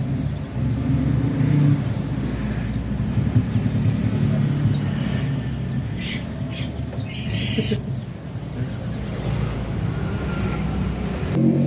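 White-eyes (pleci) chirping in short, high, repeated calls over a steady low rumble. Music comes in right at the end.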